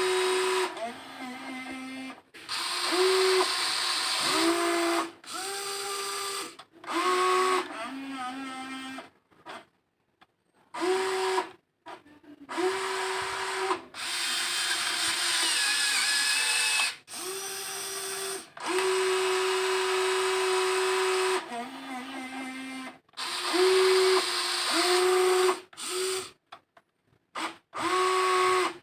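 Small electric motors of a WLtoys XK 16800 RC excavator whining in repeated start-stop bursts as its boom, arm and bucket move, the pitch stepping down at times and cutting off between moves.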